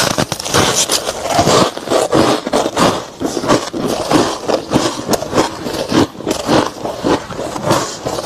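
Close-miked chewing of a mouthful of soft freezer frost: a fast, steady run of crisp crunches, several a second.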